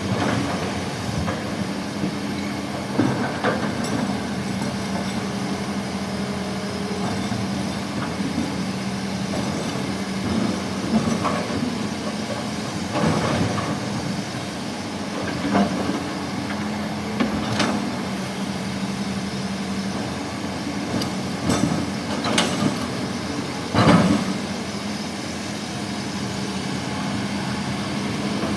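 Heavy diesel engine running steadily, with short knocks and thuds every few seconds, the loudest near the end.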